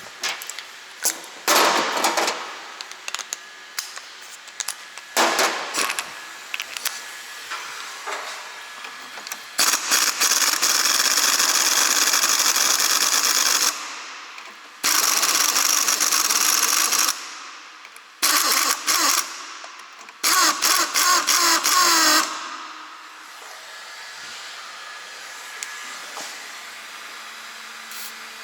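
Power tool, most likely an impact wrench, running in several hard bursts of a few seconds each on the stabilizer link nuts, each burst starting and stopping abruptly, with shorter bursts earlier on.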